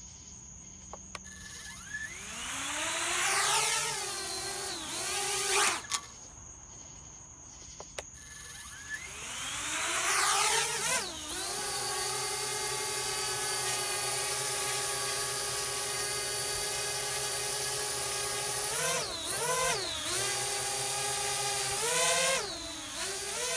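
Parrot Bebop 2 quadcopter's motors and propellers spinning up with a rising whine, then cutting out. They spin up again and hold a steady whine, with the pitch dipping and rising twice near the end as the throttle changes.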